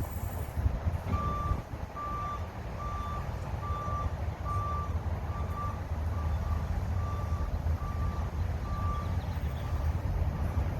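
Vehicle backup alarm beeping steadily at one pitch, a little more than one beep a second, over the low rumble of an idling engine; the beeps fade near the end.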